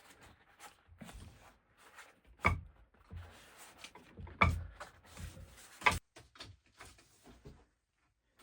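Rustling and handling noises, broken by three sharp knocks about two and a half, four and a half and six seconds in.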